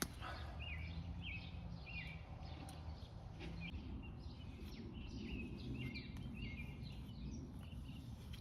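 A bird chirping in a series of short, repeated calls with a lull partway through, faint over a low background rumble. No sound of water spraying or leaking from the vacuum breaker.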